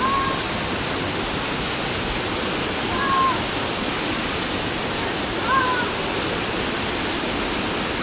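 Waterfall rushing steadily, a dense even hiss of falling water. A short, high, arched call cuts through it about every two and a half seconds.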